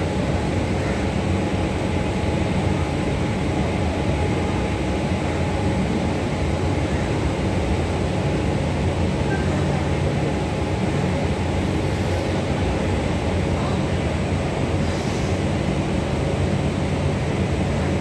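Indian Railways passenger coaches rolling past on the rails as the train pulls into a station: a steady, even rumble of wheels on track.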